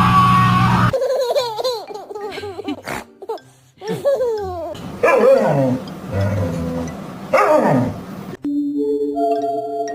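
A dog giving a run of short, high yips and whining cries, some sliding down in pitch. Near the end, background music with steady held notes takes over.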